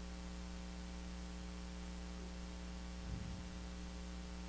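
Steady electrical mains hum in the recording, with a faint short sound about three seconds in.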